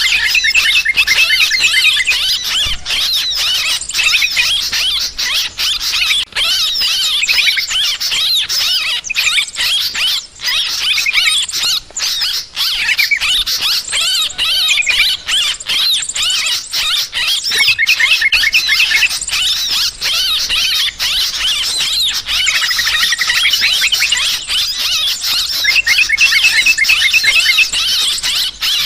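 A flock of yellow-vented bulbuls (trucukan) calling noisily: a dense, unbroken chorus of overlapping high chattering and squealing notes. This agitated 'ribut' calling is the kind used to lure birds to a trap.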